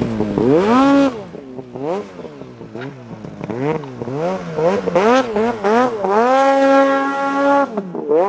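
Mountain snowmobile engine revved in repeated short bursts, its pitch rising and falling, then held high for about a second and a half near the end before dropping off. The rider is throttling to power the stuck sled out.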